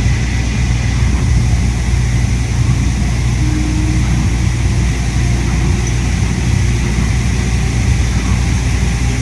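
Steady, loud cabin noise inside a Yui Rail monorail car: a low running drone with air-conditioning noise over it.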